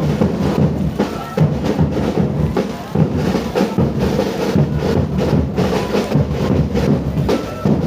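Live music with a steady beat of drums and percussion strikes.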